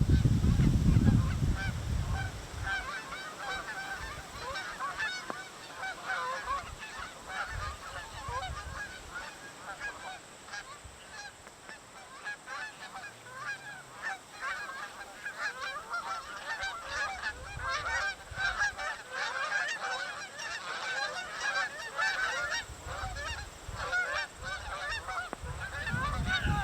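A large flock of Canada geese honking over and over, the calls overlapping and growing busier in the second half as the birds come in to the water. Wind rumbles on the microphone in the first two seconds.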